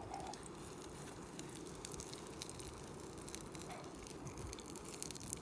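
Sausages frying, sizzling with a steady run of small sharp crackles.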